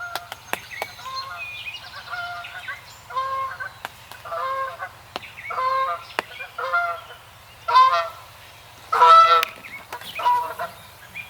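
Geese honking: a series of about ten separate honks roughly a second apart, the loudest two near the end, with a few sharp clicks between them.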